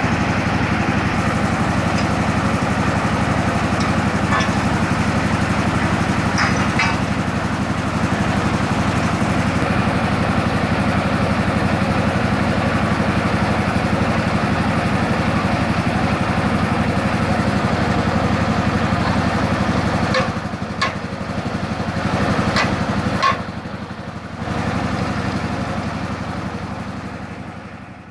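Motor of a homemade water-well drilling rig running steadily. About twenty seconds in it drops in level, with a few sharp knocks, then dies away at the end.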